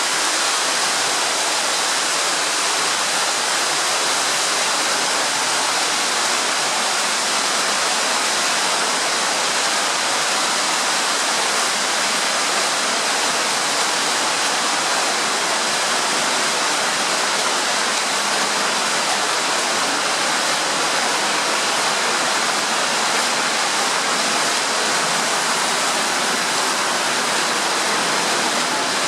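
Underground waterfall in a tunnel: water pouring down in a steady, loud rush.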